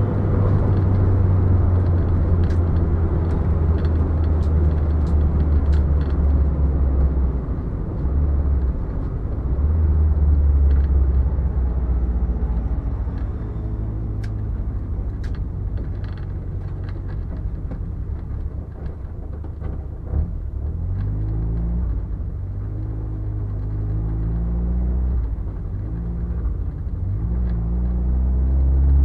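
Ford Fiesta Mk5 Zetec S on the move, with a heavy low rumble throughout. From about two-thirds of the way in, an engine note rises and falls as the revs change.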